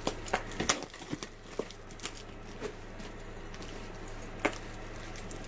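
Cardboard box being handled and its packing tape worked at: scattered clicks, scrapes and crinkles, busiest in the first second and again around two and four and a half seconds in.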